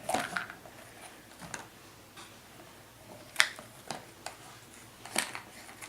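Scattered clicks and taps of a plastic Tommee Tippee snack pot being handled as biscuits are taken out of it.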